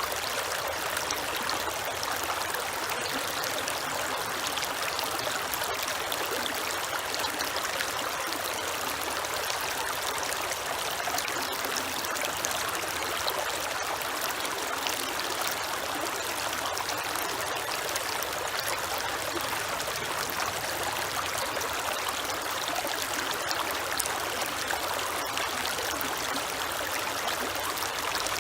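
Creek water running and trickling over stones, a steady, even rush.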